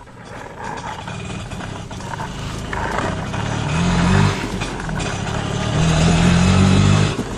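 Motor-vehicle engine sound running steadily with a low, even note, growing louder and swelling twice.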